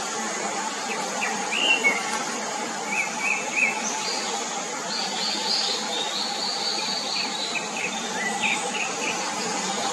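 Short, high bird chirps and squeaks, some in quick runs of three, over a steady background hum.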